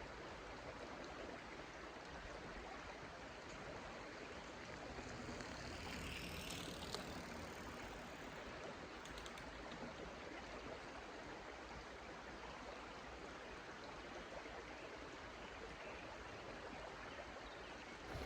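Small meandering stream running steadily, a faint even rush of water.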